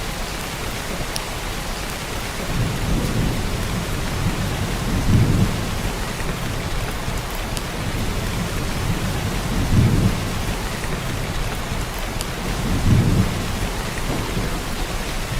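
Heavy rain pouring steadily as an even hiss, with low rumbles swelling up four times, about 3, 5, 10 and 13 seconds in.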